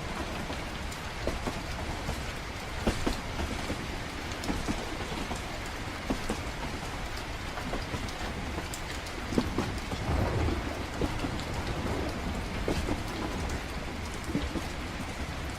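Steady rain with scattered sharp drop ticks over a low, steady train rumble; a low roll of thunder swells about ten seconds in.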